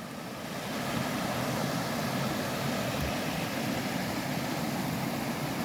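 Steady rushing of flowing river water, growing a little louder in the first second and then holding even.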